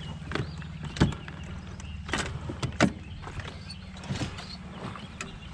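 Handling knocks in a plastic fishing kayak: half a dozen sharp clicks and knocks, spread out, over a steady low hum.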